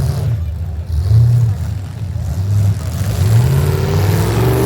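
Demolition derby vehicle engines revving hard, the pitch rising and falling again and again as the drivers throttle up and back off.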